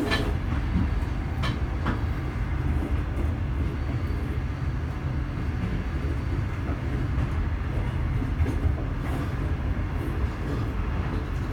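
Passenger train coach running along the track, heard from inside the carriage: a steady low rumble of wheels on rails, with a few sharp clicks near the start.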